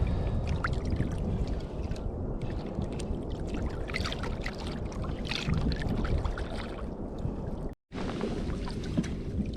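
Seawater lapping, splashing and trickling against the hull of a drifting kayak, with a steady low wash underneath. The sound cuts out for an instant about eight seconds in.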